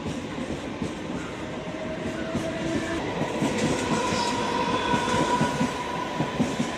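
Passenger train running through a station, its wheels clattering over the rail joints, with a faint steady squeal above the clatter that grows stronger about halfway through.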